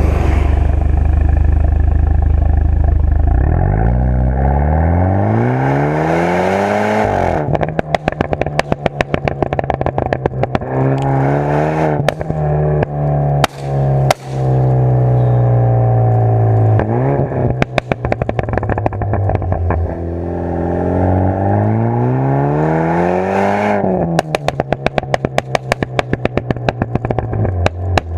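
BMW F30 320i's turbocharged four-cylinder running through an XEX aftermarket exhaust. It holds a steady note, then rises in revs twice. Each time the revs drop, it gives a fast series of crackles and pops from the exhaust.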